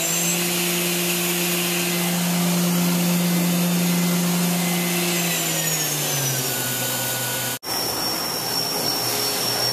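Doosan MV4020 CNC vertical mill spindle running at speed with a steady whine, then winding down in a falling tone about five or six seconds in. Near the end the sound breaks off for an instant, then a steady high-pitched whine goes on.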